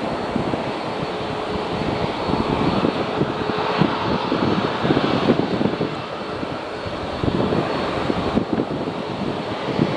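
Departing airliner's engines running at high power, a loud, steady, rough rumble.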